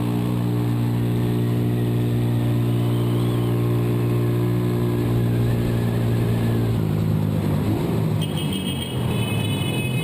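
A vehicle engine running with a steady hum. About seven seconds in it turns rougher and noisier.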